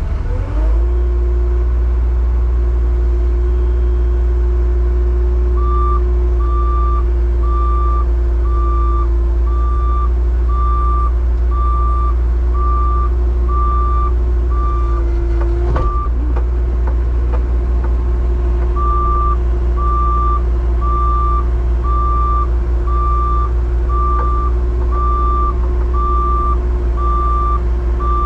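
Rollback tow truck's engine running with a steady whine that comes up about half a second in, while its backup alarm beeps about once a second, pausing briefly about two-thirds of the way through.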